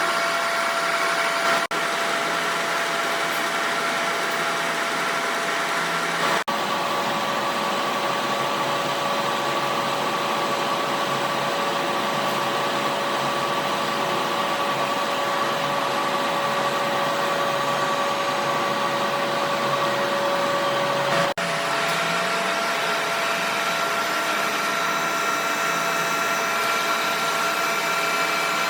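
A machine running steadily with a motor whine over a broad noise. The whine's pitch drops at about six seconds in and rises back at about twenty-one seconds, each change at a brief break in the sound.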